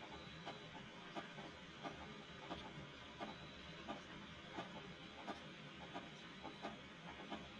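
Rain falling on a wooden deck: an even hiss with a drip landing at a steady pace, about every two-thirds of a second.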